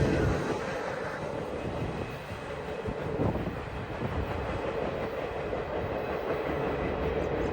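Freight train cars rolling past on the rails: a steady rumble that eases off over the first couple of seconds, with a few faint knocks.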